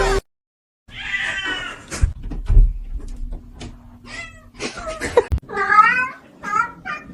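A cat meowing repeatedly, with a few dull thumps in between. It gives one call about a second in and a longer call near six seconds, then short meows come quickly, about three a second.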